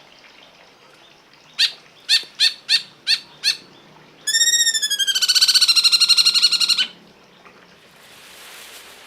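A bird calling: six short, sharp notes about a third of a second apart, then one long, harsh, rapidly pulsing trill lasting about two and a half seconds.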